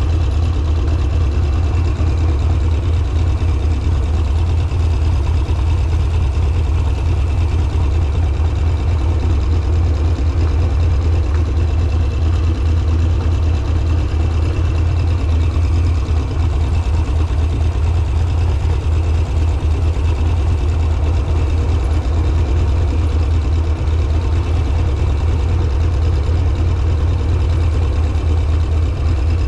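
Harley-Davidson Sportster's air-cooled V-twin engine running steadily at low, even revs. It is a deep, constant rumble with no revving up or down.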